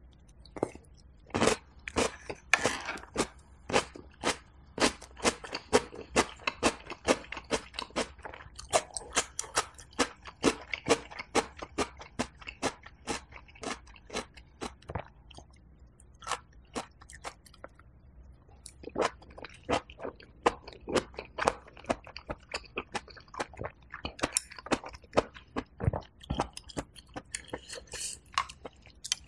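Close-miked chewing of a mouthful of food, a dense run of wet, crunchy mouth clicks and smacks. It thins out for a few seconds around the middle, then picks up again.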